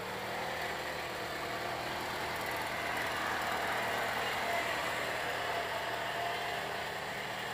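Small garden tractor engine running steadily at high revs while the tractor works to pull through thick mud, its pitch wavering slightly with the load.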